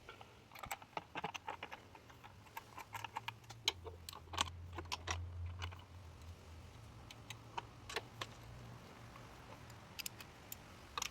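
Irregular light metallic clicks and clinks of a socket wrench and bolts as the motorcycle's front sprocket cover is refitted.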